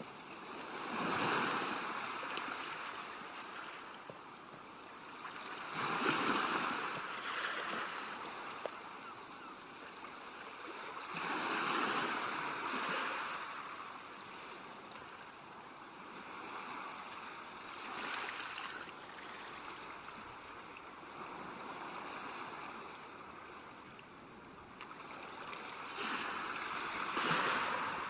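Ocean surf: waves breaking and washing in a steady rush, with a swell of louder breakers every five to six seconds.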